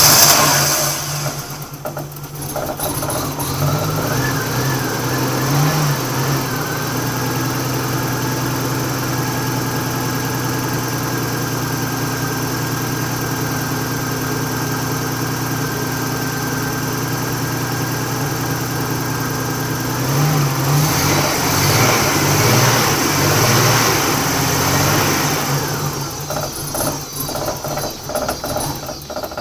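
Nissan RB30 straight-six engine running, held steady most of the time and revved twice, once early and once about two-thirds of the way through. It has a misfire: it struggles and wants to die off the throttle.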